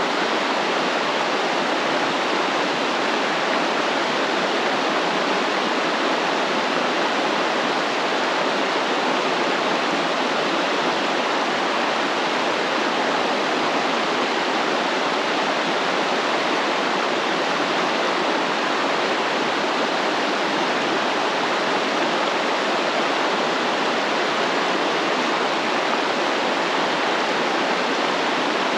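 Flowing stream water: a steady, even rush with no change in level and no birds or other sounds standing out.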